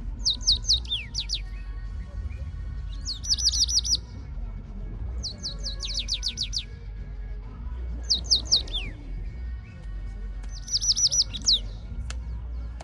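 A small songbird calling in bursts of four to six quick, high, falling chirps, repeated about every two to three seconds, over a steady low rumble.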